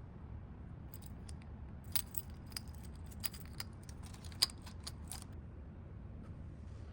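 Keychains clinking and rattling as they are handled and dropped in, a scatter of small sharp clicks for about four seconds that then stops.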